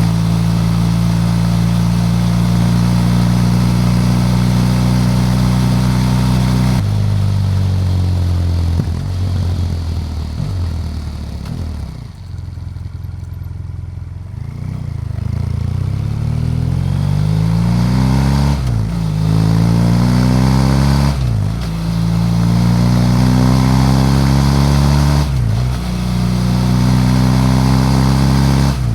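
BMW F800GS parallel-twin motorcycle engine under way: it holds steady, then falls in pitch as the bike slows, goes quieter for a couple of seconds, and then rises again through about three upshifts as it accelerates.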